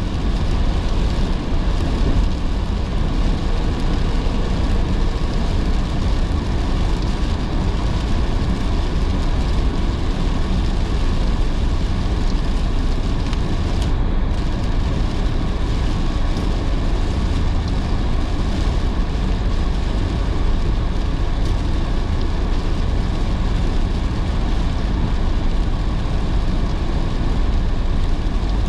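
A car driving in heavy rain: steady road and engine rumble with rain hissing over it.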